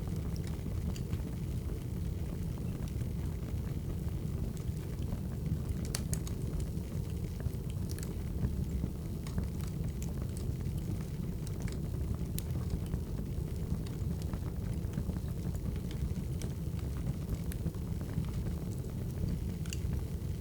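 Wood fire burning, a steady low rumble with scattered small crackles and pops, a few sharper ones about six and eight seconds in.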